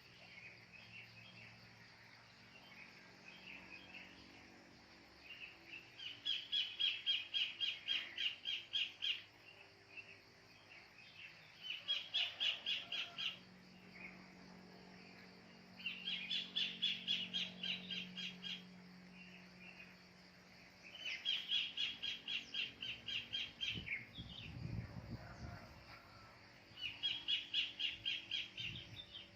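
A kingfisher (cekakak) calling in five bouts, each a rapid run of harsh repeated notes lasting two to three seconds. Fainter chirps of other birds fill the gaps.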